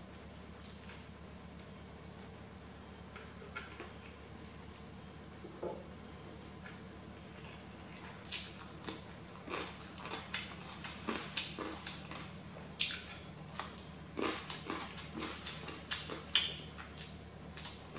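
Close-miked eating sounds: after a quiet stretch with only a few soft clicks, crisp crunching and chewing begins about eight seconds in, an irregular run of sharp crackles of varying loudness.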